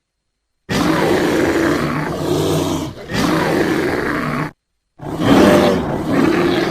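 Deep, rough calls of a large animal in two bouts: one of nearly four seconds with a short break in the middle, then a shorter one after a second of silence.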